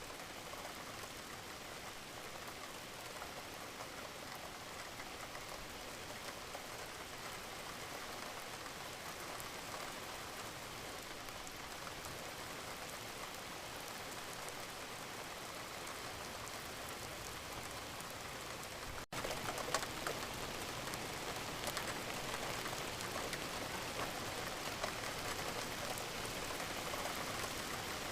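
Wood fire crackling: a steady hiss full of small pops and snaps. About two-thirds of the way through it cuts out for an instant, then carries on a little louder with more crackles.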